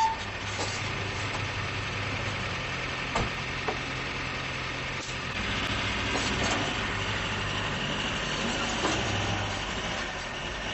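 A heavy vehicle's engine running steadily, with a few sharp knocks about three and five seconds in. A brief high beep sounds right at the start.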